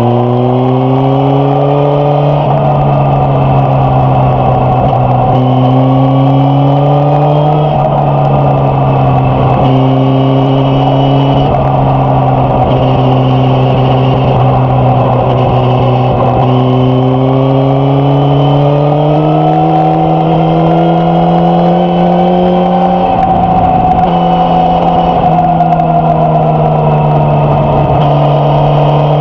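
Suzuki GSX-S1000F's inline-four engine and exhaust pulling through the revs on a ride. The pitch climbs and then drops several times as gears are shifted, with a steady whoosh underneath.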